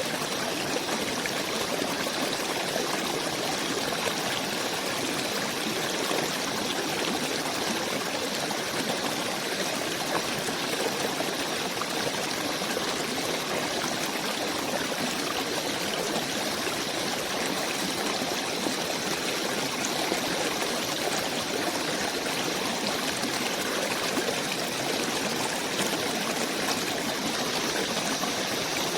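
Steady, unbroken running water, like a forest stream flowing.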